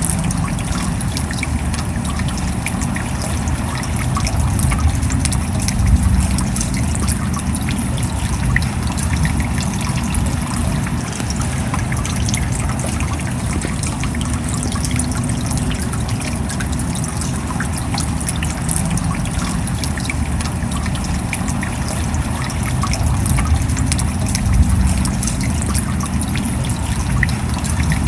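Steady rain, a dense patter of drops over a low rumble, with water trickling. It swells slightly about five seconds in and again near the end.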